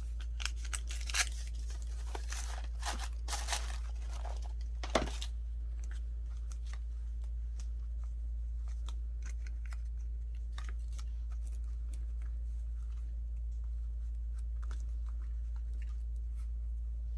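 Tea-dyed paper being handled and torn by hand: a run of short rustling, tearing strokes in the first five seconds, then only faint scattered ticks and rustles. A steady low hum lies under it throughout.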